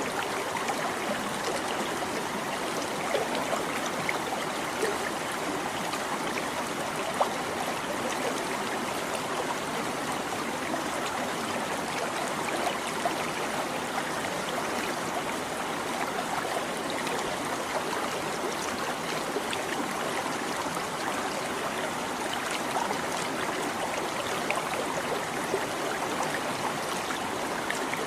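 Small stream babbling steadily, with a constant flow of water and scattered little splashes.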